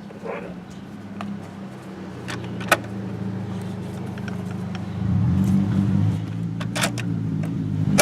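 A car engine running steadily, growing louder about five seconds in, with scattered sharp metallic clicks and clinks.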